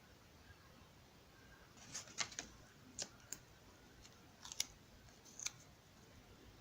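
Faint, short crinkles and clicks of packaging being handled and opened to get at the next crystal, in a few small bunches from about two seconds in.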